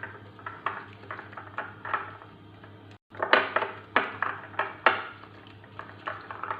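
Spoon stirring a mixture in a bowl, clinking and scraping against the bowl about two or three times a second, with a brief break in the sound about three seconds in. A faint steady low hum lies underneath.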